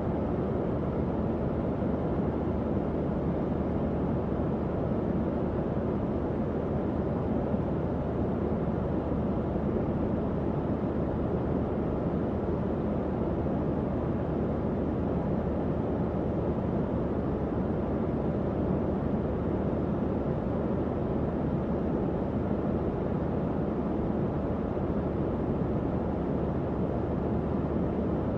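Tower fan running steadily: an even low whooshing airflow with a faint motor hum underneath.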